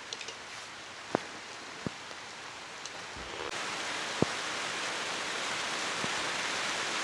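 Firewood cooking fire: a steady hiss that gets louder about halfway through, with a few sharp crackling pops from the burning wood.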